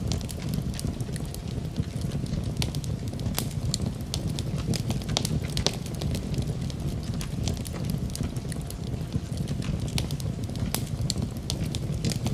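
Wood fire burning in a fireplace: a low steady rumble of flame with frequent irregular crackles and pops.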